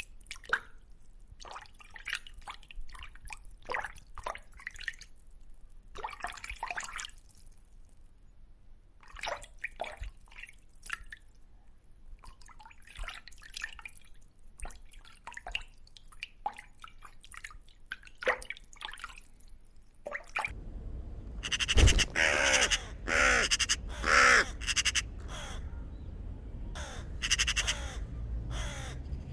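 Birds calling: a long run of short, scattered chirps and clicks, then, after a cut about two-thirds of the way through, louder repeated harsh calls.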